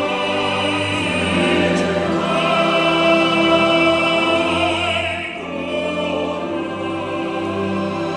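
Choir singing long sustained notes, the voices wavering with vibrato, with a short drop in loudness about five seconds in.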